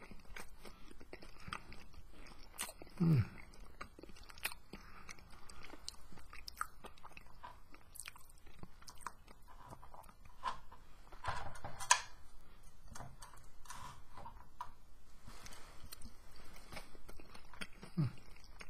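A person chewing and biting into a soft veggie burger patty, with light clicks throughout. Two short falling hums come at about three seconds in and near the end.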